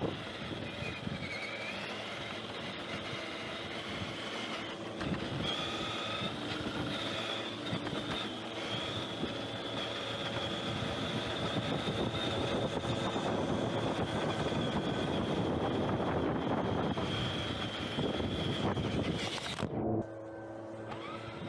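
Electric motor and gear whine of an Axial Wraith RC crawler, a steady high whine that wavers with speed over the crunch of its tyres on the dirt track. It cuts off suddenly near the end.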